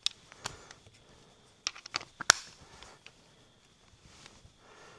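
A few sharp clicks and knocks of hand tools and metal parts being handled, such as a socket, nut and washer, the loudest a little over two seconds in. A faint steady high whine sits underneath.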